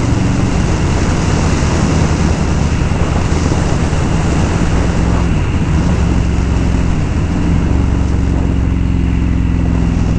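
Indian Scout V-twin motorcycle engine running under way, with heavy wind rush over the microphone. Its note dips and then climbs again about halfway through.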